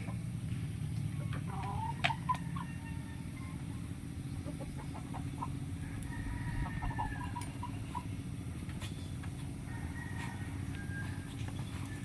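Chickens clucking in short, scattered calls over a steady low rumble, with a couple of sharp clicks about two seconds in.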